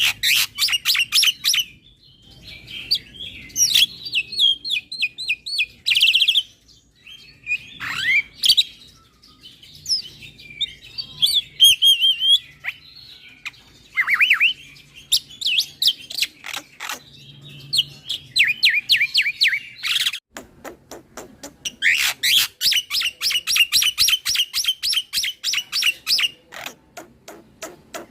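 Black-winged myna (jalak putih) singing a continuous, varied song: fast runs of repeated sharp notes at about five a second, chattering phrases, and a few falling whistles, with short pauses between phrases.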